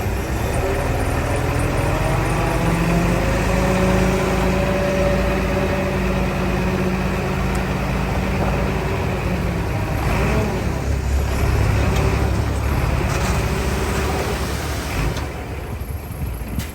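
Heavy diesel engine of earthmoving machinery working under load. Its pitch rises about two seconds in and holds steady, then drops to a lower, rougher running sound about ten seconds in and eases off near the end.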